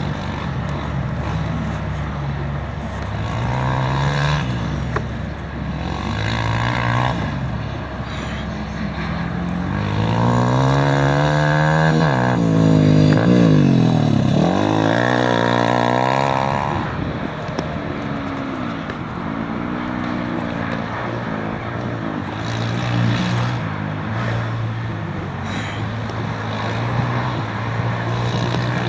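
Engines of off-road rally racers revving and passing, their pitch rising and falling several times; the loudest pass comes about halfway through, over a steady low engine drone.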